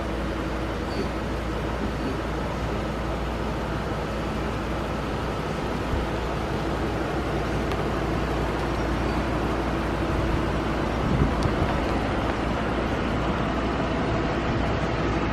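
Ford Triton truck engine running smoothly and steadily, growing a little louder in the second half, with a few light knocks.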